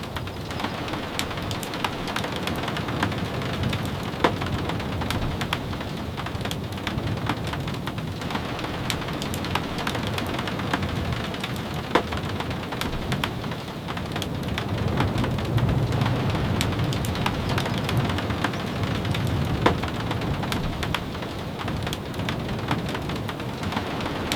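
Steady rain falling on a cabin's windows, with many scattered sharp ticks of single drops. A low rumble swells about two-thirds of the way through.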